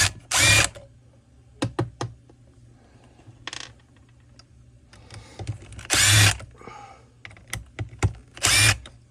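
A power tool run in four short bursts, with clicks and knocks of parts being handled between them.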